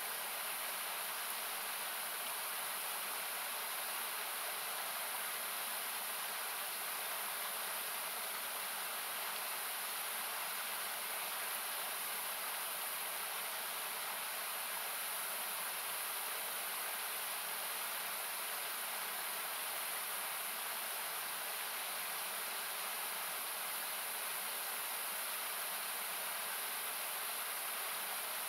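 Steady rushing of a river, an even hiss of water noise without change, thinned in places by equalizer cuts.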